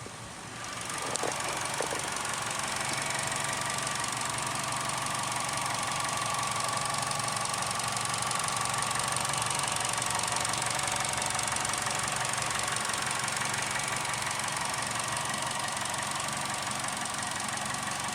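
Holden Cruze engine running steadily, getting louder about a second in and then holding an even note.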